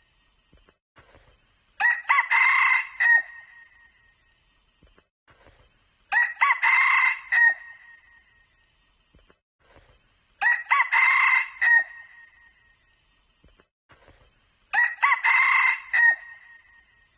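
Red junglefowl crowing: four short crows, one about every four seconds, each clear and ringing.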